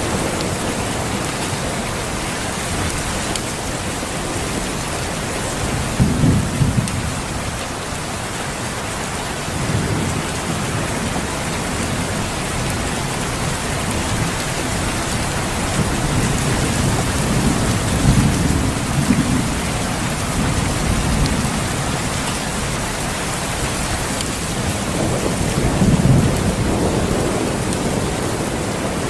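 Steady rain falling, with low rolls of thunder rumbling about six seconds in, several times in the second half, and again near the end.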